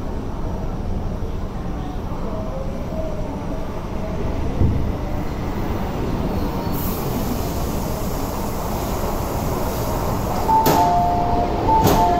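Deep, steady rumble inside a Metro Cammell (MLR) electric multiple-unit train car as it comes to a stop at a platform, with a brief thud a little over a third of the way in. Near the end a two-tone door chime beeps, with sharp clicks as the doors are released.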